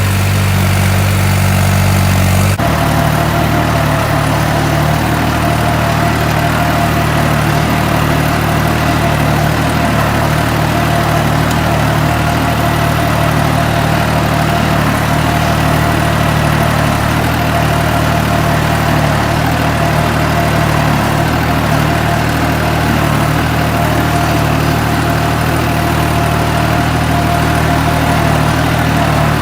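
Tractor engine running steadily, with a low, even engine note. The note changes abruptly about two and a half seconds in, then holds steady.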